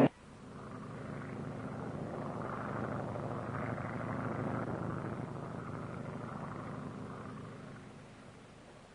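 A droning, engine-like rumble that swells for about four seconds and then fades away, after a click at the very start.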